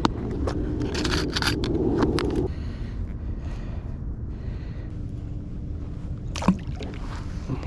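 Scraping and clicking on a kayak, dense for the first couple of seconds and then stopping abruptly, over a steady low rumble, with one sharp knock near the end.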